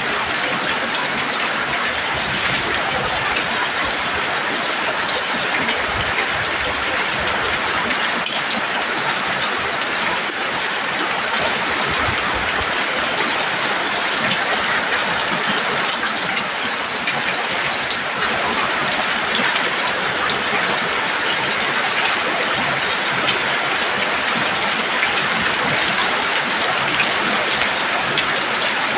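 Heavy rain falling steadily on a roof: a dense, even hiss with many small drop ticks, unchanging in loudness.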